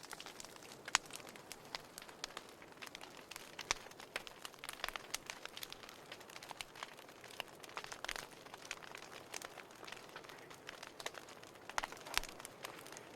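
Wood fire crackling in a fireplace: irregular sharp pops and snaps over a faint steady hiss, with louder pops about a second in, around eight seconds in and near the end.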